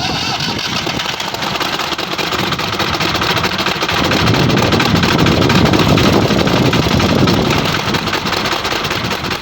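Tractor's diesel engine running, getting louder about four seconds in and easing off again about three seconds later.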